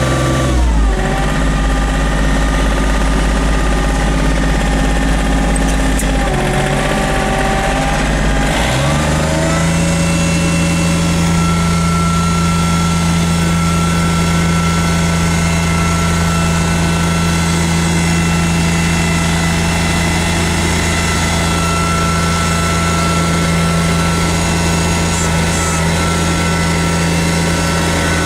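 Small diesel tractor engine running. Its speed drops about half a second in, dips again around six seconds, then rises about nine seconds in and holds at a steady higher speed.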